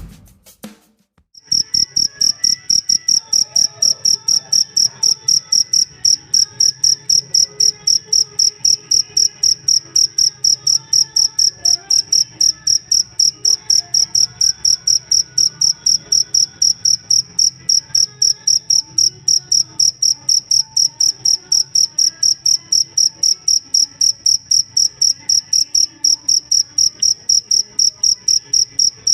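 Cricket chirping steadily: a loud, high, pure-toned chirp repeated in a fast, very even rhythm of about three to four chirps a second. It starts about a second and a half in after a short silence.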